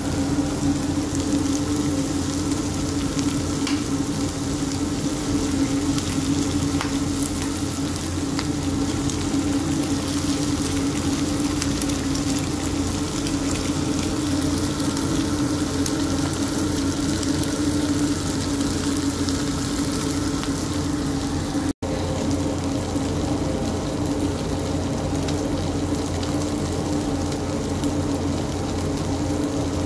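Sisig sizzling and frying in a hot cast-iron grill pan, a steady sizzle with faint scattered pops, over a constant low hum. The sound cuts out for a split second about two-thirds of the way through.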